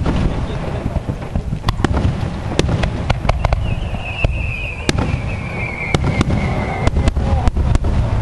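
Aerial fireworks shells bursting in a barrage: a continuous low rumble of booms, punctuated by sharp cracking reports at irregular intervals.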